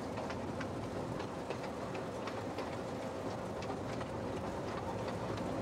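Carriages of a miniature railway train rolling along the track: a steady rumble with light clicks of the wheels over the rail joints, about three a second.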